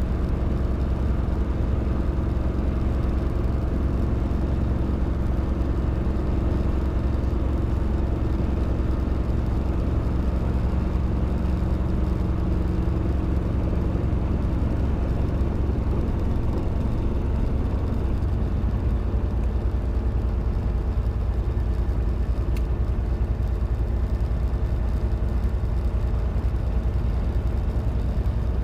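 Robinson R22 helicopter's piston engine and rotors running with a steady drone; the pitch of its tones shifts slightly about halfway through.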